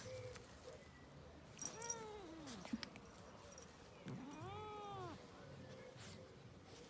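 Domestic cat meowing twice: a meow that falls in pitch about two seconds in, then a longer one that rises and falls about four seconds in.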